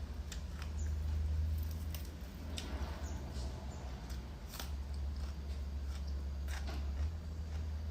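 Someone eating seafood close to the microphone: chewing, with scattered short clicks and crackles from shells being handled and peeled, over a steady low hum.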